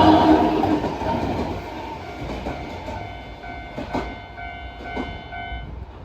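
A narrow-gauge Sangi Railway Hokusei Line train running over a level crossing and away, its wheel and rail noise loud at first and fading. The crossing's warning bell rings in a steady repeating pattern over it and stops near the end.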